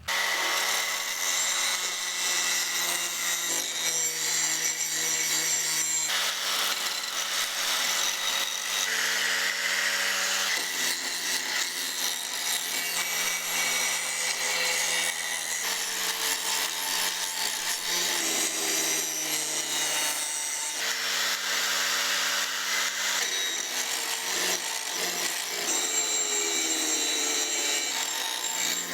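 A handheld power tool running steadily under load with a harsh grinding, abrasive noise. Its pitch steps up and down every few seconds as the load on it changes.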